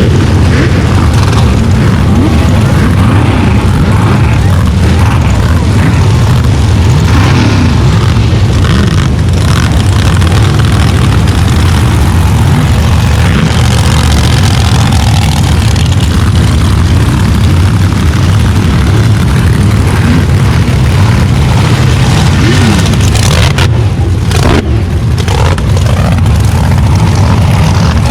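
Big mega truck engines running loud with a deep, steady rumble, with a few short revs rising in pitch.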